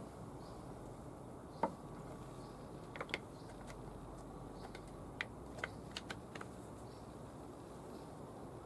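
Scattered light clicks and taps of small tool parts being handled on a workbench: one sharper click about two seconds in, a quick pair a second later, and a cluster of five or six clicks in the second half, over a faint steady hiss.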